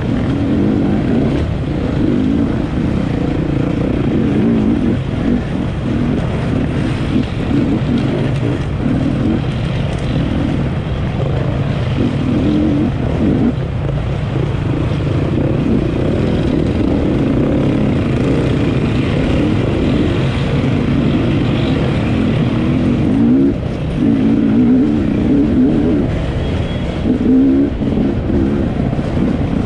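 Enduro motorcycle engine running hard, its revs rising and falling again and again with the throttle.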